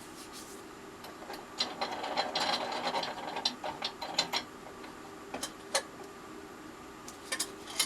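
Thin plywood pieces being handled and set in place on the bench: a run of light taps, clicks and rubbing between about two and four seconds in, then a few sharp isolated clicks, with more near the end.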